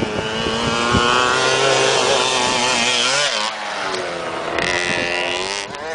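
Youth motocross dirt bike engine revving on the track. Its pitch wavers with the throttle, drops off about halfway through, then climbs again.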